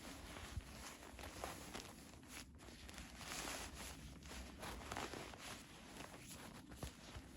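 Faint footsteps, an irregular soft shuffling with a few louder steps.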